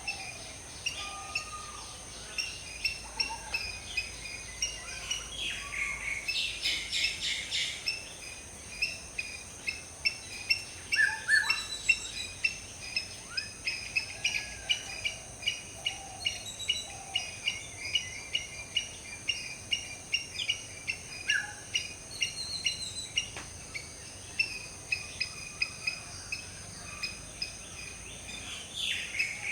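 Wild bird chorus: many rapid, repeated chirps with scattered short whistled notes, over a steady high-pitched buzz.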